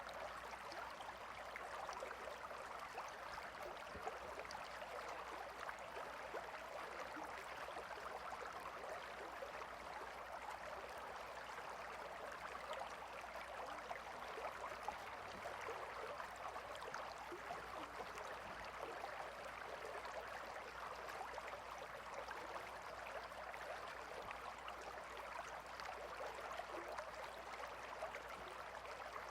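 Gentle river water flowing and babbling steadily, a soft continuous rush with fine trickling detail.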